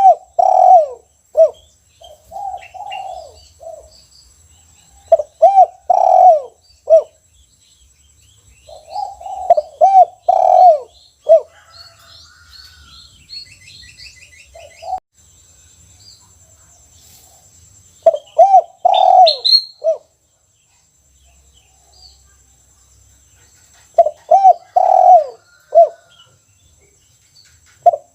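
A caged spotted dove (tekukur) of the 'kuk 1' song type cooing its phrase over and over, a run of low coos every few seconds. Faint chirps of other small birds come in between.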